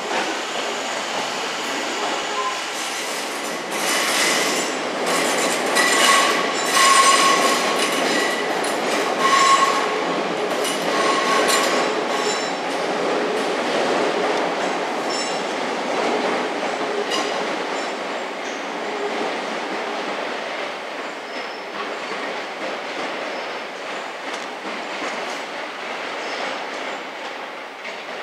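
Electric multiple-unit train running slowly through the station throat, its wheels clattering over pointwork with short high-pitched flange squeals between about four and twelve seconds in. The running noise then slowly fades.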